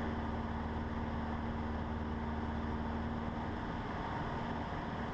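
Cessna 150's four-cylinder Continental O-200 engine and propeller droning steadily at cruise power, heard inside the cockpit.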